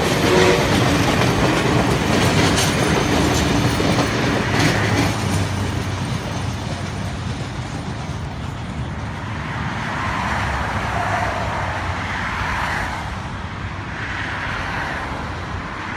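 Heritage passenger carriages rolling past, wheels clacking over the rail joints, the noise fading as the tail of the train draws away. A held whistle note stops about half a second in.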